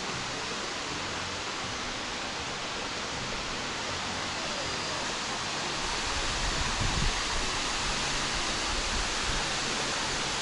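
Steady rushing hiss of a large waterfall, with a deeper low rumble building from about six seconds in.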